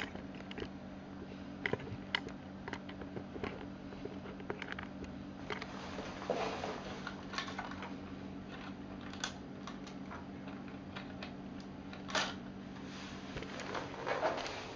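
Light plastic clicks and taps of LEGO Technic pieces being handled and fitted, scattered irregularly with a few louder knocks, over a steady low hum.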